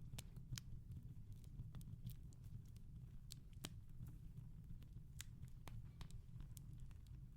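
Wood fire crackling softly in a fireplace: irregular small pops and snaps, a few a second, over a low steady rumble.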